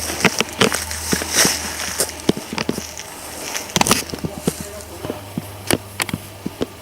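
Footsteps on rough ground with clothing and gear rustling, heard as a string of irregular clicks and knocks.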